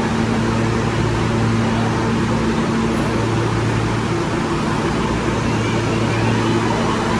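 New York City subway L train at the station, a steady loud noise with a low even hum throughout.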